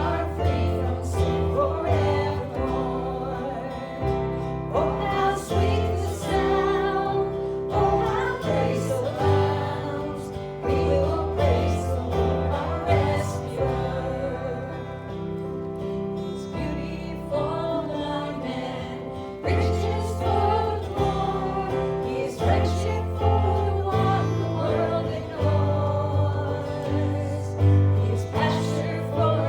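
Gospel worship song: several voices singing together over guitar and a steady bass line.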